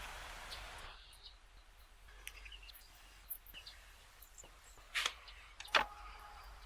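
A brief scraping or brushing noise, then scattered clicks and knocks of handled tools or wood. The loudest knock comes near six seconds in and rings briefly.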